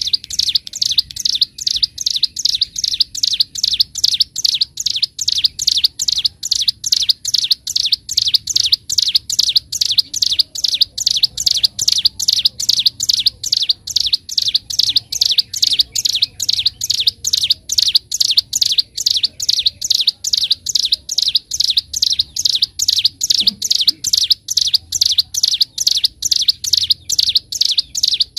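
Ciblek gunung (a prinia) singing loudly and continuously: a steady run of sharp, high chipping notes, about three a second, repeated without a break.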